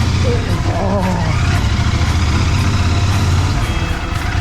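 A vehicle's engine running steadily while it is being driven, a constant low hum throughout.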